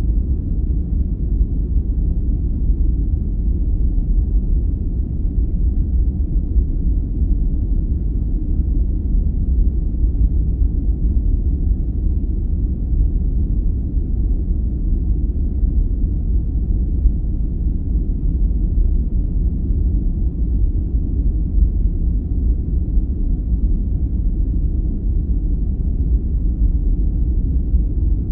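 Steady sleep-aid noise: an even, unbroken low rumble, deep and dark with little hiss, that does not change.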